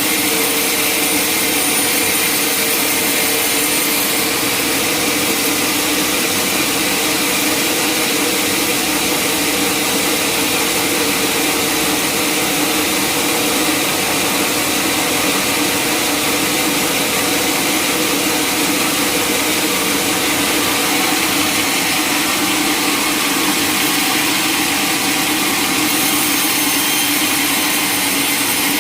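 Sawmill saw and its machinery running steadily: a loud, even mechanical din with a steady hum under a strong hiss. The hiss changes slightly about four seconds in and again near the end.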